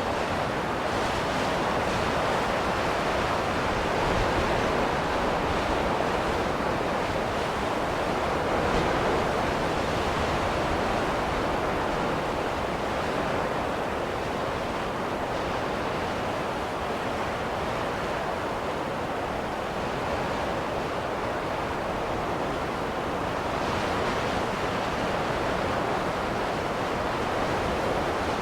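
Snowstorm wind blowing steadily as a smooth rushing noise that slowly swells and eases.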